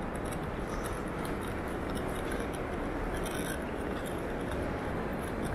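Airport terminal ambience: a steady low hum and rumble with faint small clinks and ticks scattered through it.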